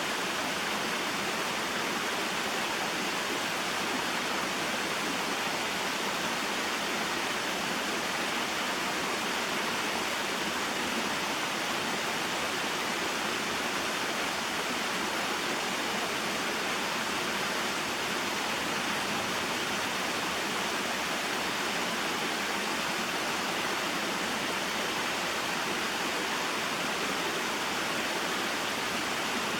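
Small waterfall and mountain stream flowing: a steady, even rush of water that does not change.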